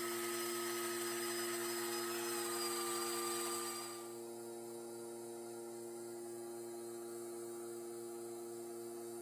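Wood lathe running with a steady motor hum. For the first four seconds a hiss rises over it as a tool or abrasive works the spinning wooden bowl, with a faint whine that dips slightly in pitch; then the contact stops and only the lathe's hum remains.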